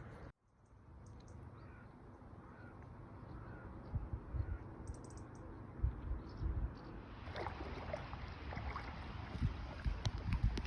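A bird calls several times in short rising notes over faint outdoor background. A few low knocks follow, and a rush of noise builds near the end.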